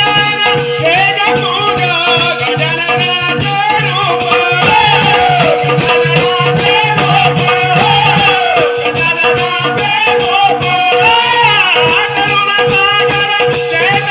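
Marathi padawali bhajan music: a gliding vocal melody over steady held drone notes, with a rattling percussion beat at about four strokes a second.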